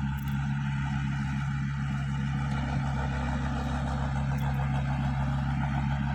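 Komatsu bulldozer's 4D92 four-cylinder diesel engine running steadily at a constant speed.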